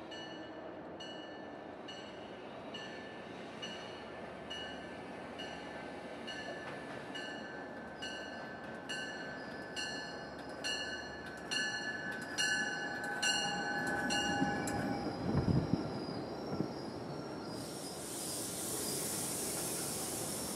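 Metro-North P32AC-DM locomotive pulling into a station, its bell ringing about once a second and growing louder as it nears, with a steady squeal of wheels or brakes rising alongside. The locomotive passes loudest about 15 seconds in, then a steady hiss follows as the coaches roll by and slow.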